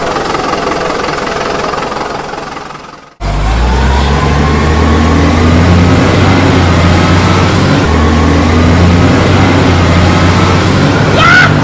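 Heavy truck engine running steadily at a low pitch, starting abruptly about three seconds in after a fainter mechanical noise fades out. A short rising tone sounds near the end.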